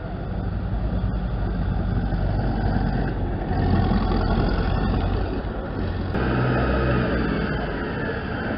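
Volkswagen Schwimmwagen's air-cooled flat-four engine running as the amphibious car drives past, loudest near the middle. The sound changes abruptly about six seconds in.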